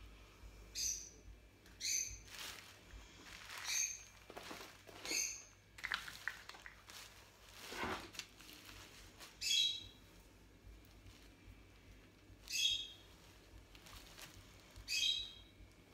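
A small bird chirping: short high calls repeated every one to three seconds. Soft rustling of tissue paper and plastic wrapping comes in between, loudest in the middle.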